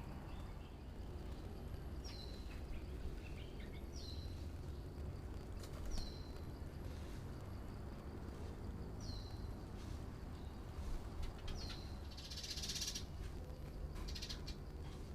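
Bird calls: a short whistle sliding downward, repeated every two seconds or so, then a harsh buzzy chatter about twelve seconds in and a shorter one soon after. A steady low background rumble runs underneath.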